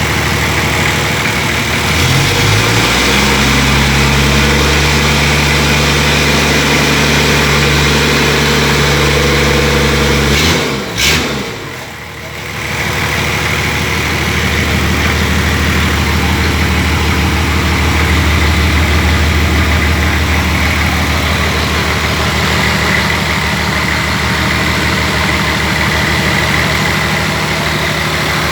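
Toyota 1HZ inline-six diesel engine idling, then raised to a higher steady speed about two seconds in and held for some eight seconds. Around eleven seconds in the sound briefly drops with a sharp break, then the engine settles back to a steady idle.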